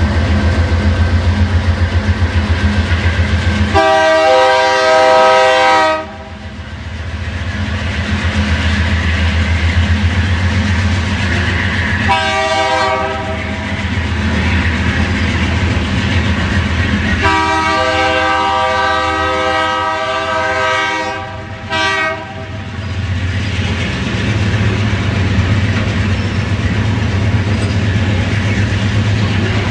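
Slow-passing diesel freight train: low engine rumble and wheels clacking over the rail joints, with the locomotive's multi-note horn sounding several times: a long blast a few seconds in, a short one, another long one, and a brief toot right after.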